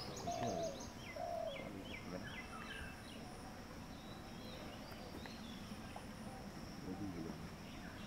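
Small birds chirping in quick series of short notes, mostly in the first three seconds, over a faint steady high-pitched drone.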